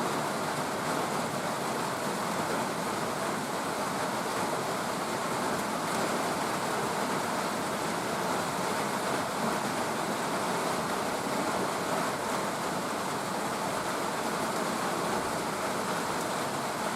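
Steady rain falling, an even hiss of drops with no pauses or single events.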